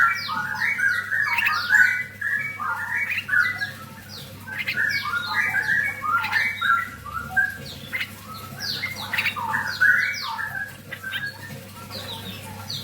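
Young straw-headed bulbuls (cucak rawa) calling in a rapid, overlapping string of short notes, many sliding down in pitch. The calls thin out near the end, over a faint steady low hum.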